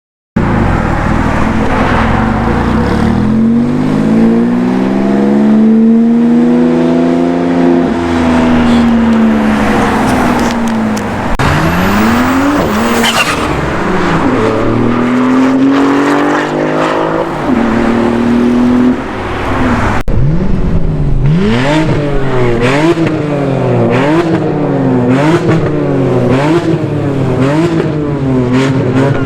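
Supercar engines revving and accelerating, their pitch climbing and falling away. About two-thirds of the way through, an engine is revved in quick repeated blips, with sharp crackles over it.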